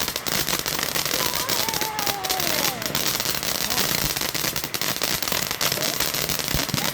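Consumer firework crackling continuously, a dense stream of rapid small pops and sizzle.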